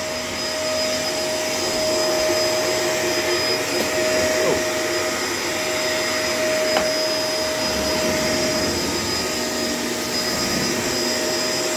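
Vacuum cleaner running steadily, an even motor whine and rush of air.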